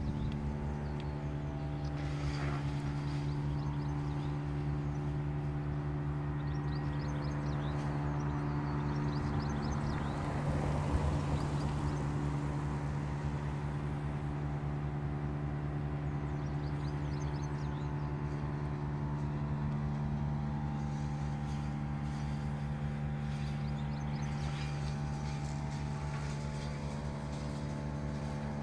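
A vehicle engine idling steadily close by, with a rising and fading rush of a passing vehicle about ten seconds in and faint high chirps now and then.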